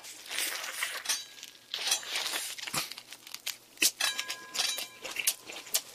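Close-miked mouth sounds of a person chewing a big bite of a whole gimbap roll: irregular wet smacks and clicks, with one sharper click about four seconds in.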